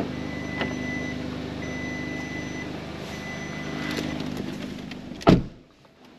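Volkswagen T-Roc R's 2.0 TSI engine idling with a steady hum, while a high electronic beep sounds three times, each about a second long. About five seconds in, the driver's door slams shut and the sound turns much quieter.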